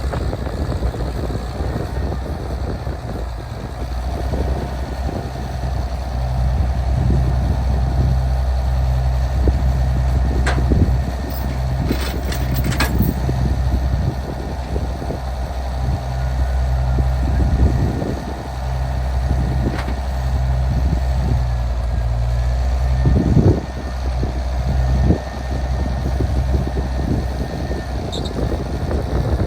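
A vehicle engine running steadily at low pitch, with a few sharp clicks partway through.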